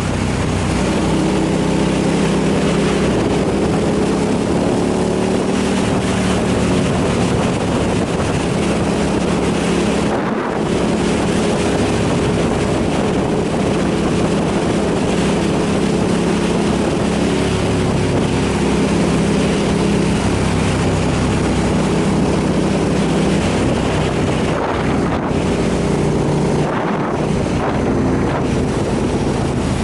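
Motorcycle engine running under way, its pitch rising and falling with the throttle, with wind rushing over the microphone. The engine sound drops out briefly about ten seconds in and a couple of times near the end.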